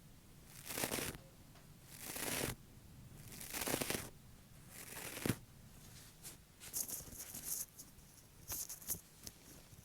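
Fake fingernails scratching and tapping on an object. First come four long scrapes that swell and break off, the last ending in a sharp click; then quick clusters of light clicking taps.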